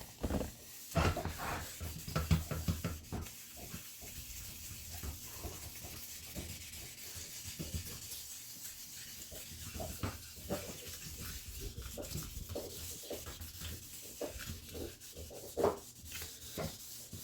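Hand wet sanding of a plastic headlight lens with 1500-grit wet sandpaper and soapy water: irregular back-and-forth rubbing strokes.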